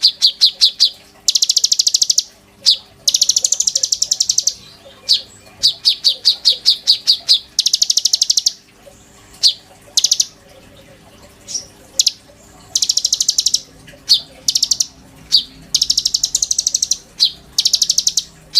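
A konin bird singing in full, continuous song: bursts of very fast, rattling high-pitched trills about a second long, alternating with slower runs of sharp separate notes and single high chips.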